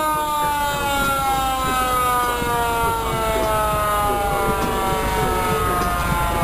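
A siren with one long, slowly falling tone over a low rumble.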